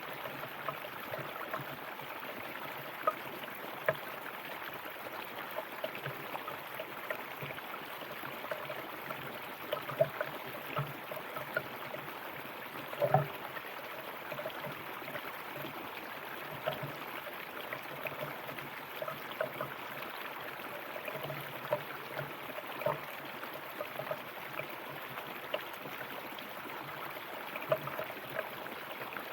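River water flowing over rocks: a steady rush dotted with frequent small gurgles and splashes, one of them louder about halfway through.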